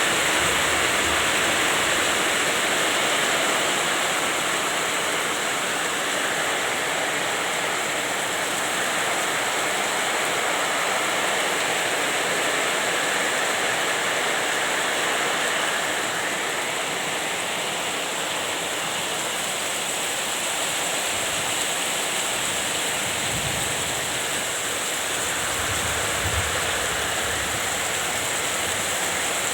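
Heavy rain pouring steadily in a windy storm, a dense even hiss. A couple of brief low rumbles come and go in the last few seconds.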